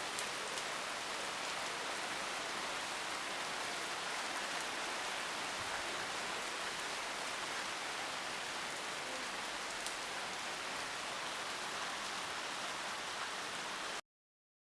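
Steady rain falling, an even hiss of drops on surfaces, cutting off abruptly near the end.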